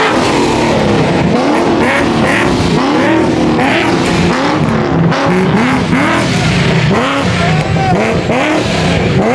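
Car engine revving hard again and again, its pitch climbing and dropping in quick repeated sweeps, over a dense rush of tyre noise with some tyre squeal, as from a car doing a burnout or donuts.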